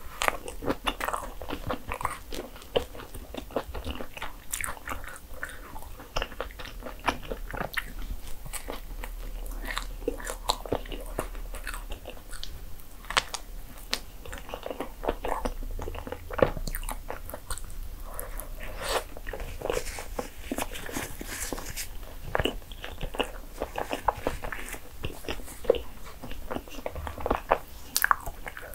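Close-miked chewing and biting of a soft, cream-filled sandwich bagel: a continuous run of short mouth clicks and small bites.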